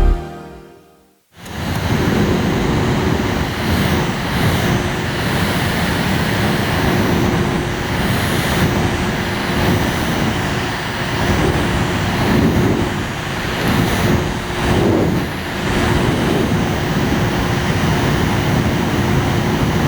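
Mini air conditioner's fan running steadily, a rushing of air with a faint hum, starting a little over a second in.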